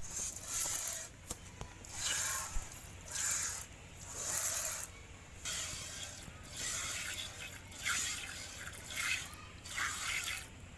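Streams of milk squirting into a pail as a cow is milked by hand: short hissing spurts, about one a second, some in quick pairs.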